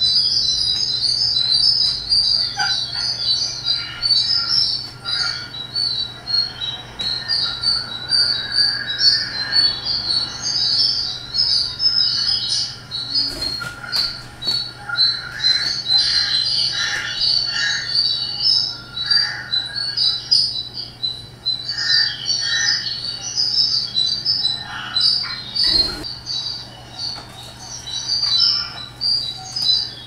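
Birds chirping and twittering in a constant busy chatter of short high notes, mixed with lower call phrases, over a steady low hum.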